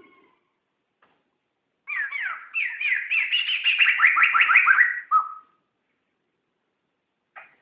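Poksay laughingthrush singing: after a short pause, a quick run of repeated downward-sliding whistled notes, several a second, ending on a lower held note; a new phrase begins at the very end.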